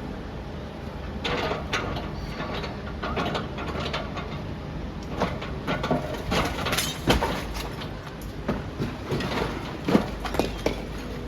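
Demolition machinery at work: a low engine rumble under irregular cracking, crunching and clattering of breaking masonry and falling debris, busiest in the second half.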